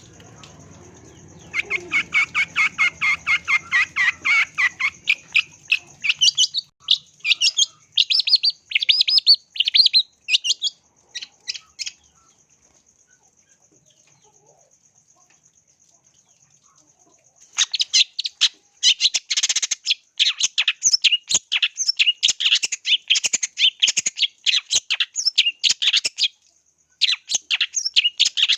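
Long-tailed shrike (cendet) singing in rapid, chattering bursts of short repeated notes, falling silent for about five seconds midway before the dense song resumes. A thin steady high tone runs underneath.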